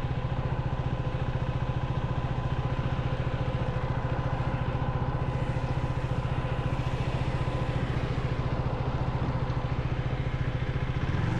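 Single-cylinder KTM 390 Duke engine idling steadily with a fast, even pulse. Right at the end it gets a little louder as the throttle starts to open.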